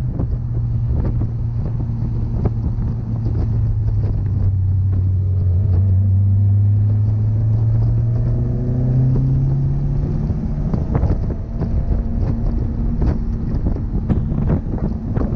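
Mitsubishi Lancer Evolution IX MR's turbocharged 2.0-litre four-cylinder engine heard from inside the cabin while lapping, its note sinking slightly, then climbing steadily for several seconds as the car accelerates, and falling away about ten seconds in. Road and wind noise with scattered knocks and rattles run under it.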